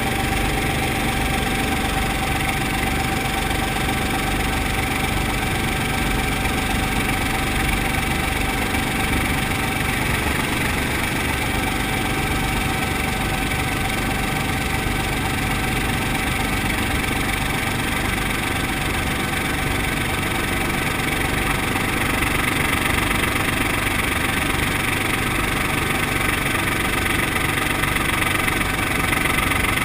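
Brantly B-2B helicopter's piston engine and rotor running steadily, with a fast low beat throughout; a little louder over the last several seconds.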